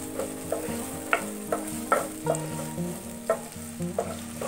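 Chopped onion sizzling in hot oil in a nonstick frying pan while a wooden spatula stirs it in quick repeated scraping strokes, a little under three a second.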